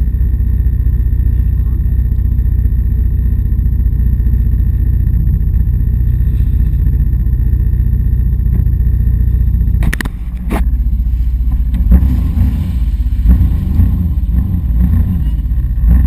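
Sea-Doo jet ski engine running with a steady low drone. About ten seconds in there is a sudden sharp knock and the sound briefly drops, then the drone turns uneven with several loud thumps.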